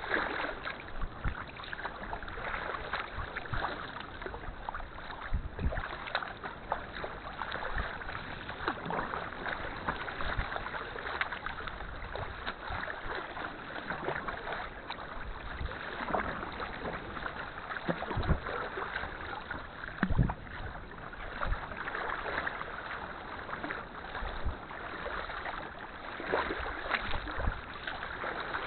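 Kayak paddling at sea: paddle blades dipping and splashing, with water sloshing against the hull in a steady wash broken by irregular splashes.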